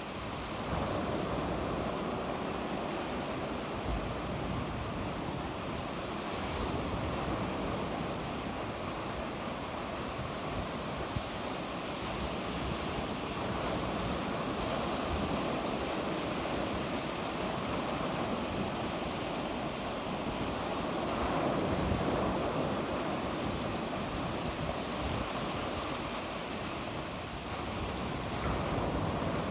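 Sea waves breaking and washing on the shore in a steady wash of surf, swelling gently now and then, with some wind on the microphone.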